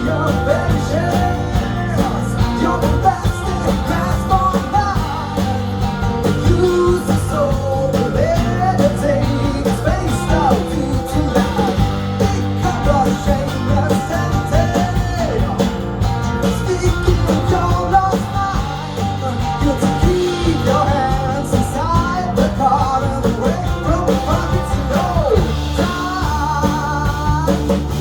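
Rock band playing an instrumental passage with guitar and drums: a melody line bends up and down in pitch over a steady bass and drum beat.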